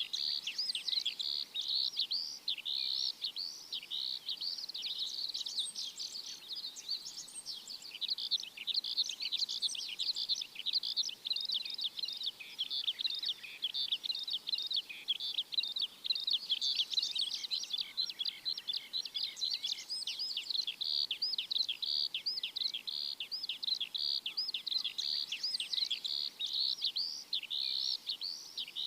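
A dense chorus of many small birds chirping at once, short high chirps overlapping without a break.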